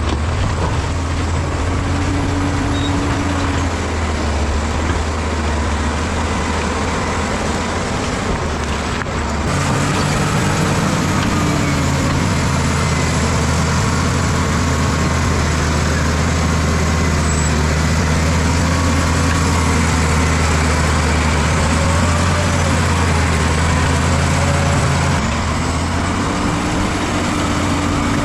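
Bulldozer's diesel engine running steadily under load, a loud low drone. About nine seconds in it gets louder and heavier, as if working harder, then eases back a little near the end.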